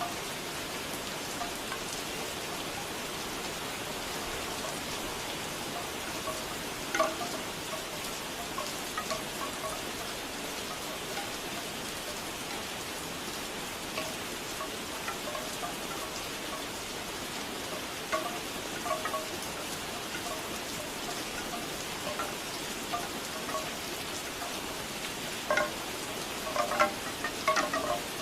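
Steady rain, with bamboo wind chimes clacking in scattered hollow knocks, gathering into a busier cluster near the end.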